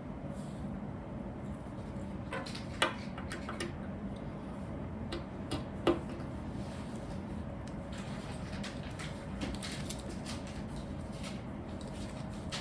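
Plastic Lego pieces clicking and tapping as they are handled and pressed together, with two sharper clicks about three and six seconds in, over a steady low hum.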